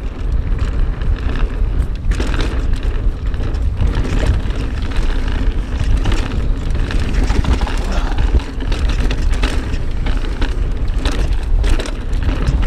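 Wind buffeting the camera microphone and knobby tyres rolling fast over a dirt trail on a mountain bike descent, with the bike clattering and knocking over bumps throughout.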